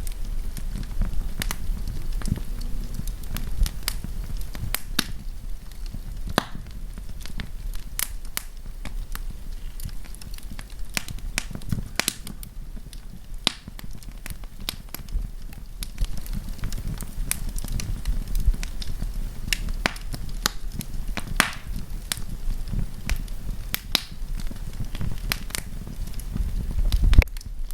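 Wood campfire crackling, with irregular sharp pops and snaps over a steady low rumble. A louder pop comes near the end.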